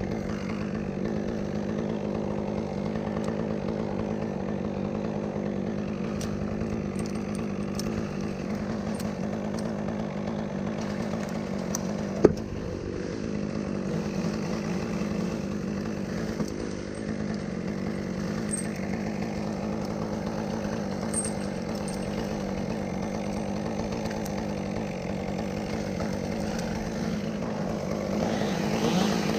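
Two-stroke chainsaw engine running steadily, with a single sharp knock about twelve seconds in.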